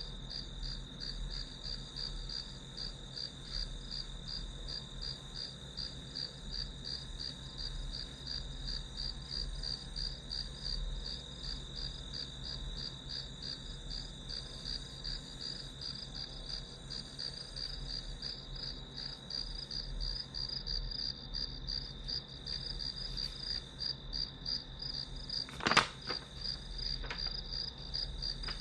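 Field crickets chirping without pause: a steady high trill under a quick, evenly pulsing chirp. Near the end comes one sharp click, then a fainter one about a second later.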